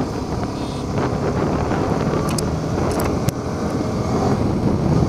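Motorcycle engine running steadily, with a few sharp clicks about halfway through.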